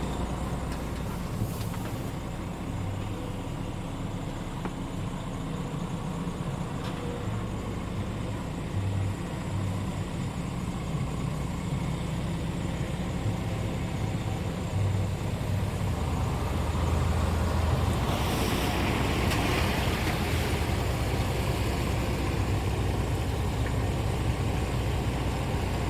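Scania R450 tractor unit's 13-litre six-cylinder diesel engine running steadily, with a hiss lasting a few seconds about eighteen seconds in.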